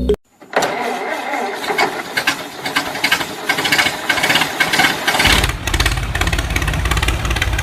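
Small motor and gears of a homemade mini tractor running with a dense, rattling whir. A deeper buzz joins about five seconds in.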